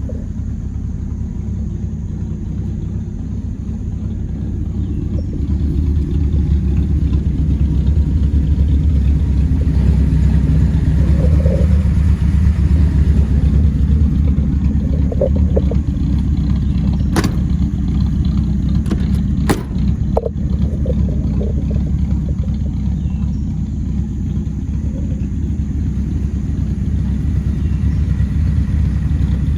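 1983 Dodge D150 Miser pickup running, a steady low engine rumble that grows louder over the first ten seconds or so and then holds. A few sharp clicks come about two-thirds of the way through.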